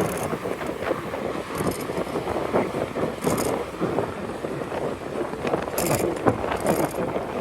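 Riding noise from a Bajaj Chetak electric scooter on the move: a steady rush of wind and road noise with scattered rattles and clicks.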